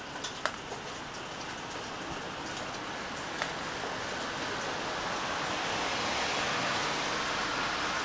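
Steady rain falling, an even hiss with a few sharp single drops striking a surface in the first half; the hiss swells and grows louder in the second half.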